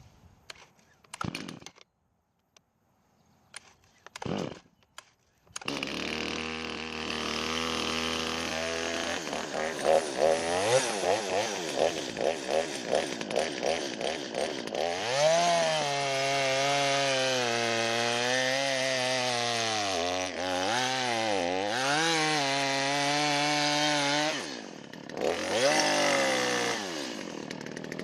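Two-stroke chainsaw with a freshly fitted chain: two short pull-cord rasps, then it starts about five seconds in and idles. It is blipped in quick bursts, then held at high revs with the pitch sagging and recovering, drops briefly near the end and revs again.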